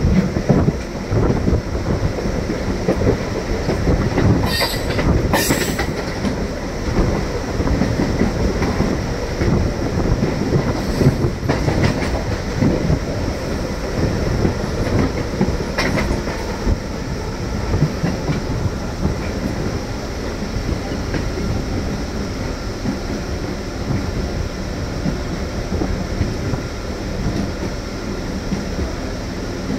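MEMU electric multiple-unit train running on the track, its wheels clattering steadily over the rails, with a few sharp clicks in the first half. It eases a little toward the end.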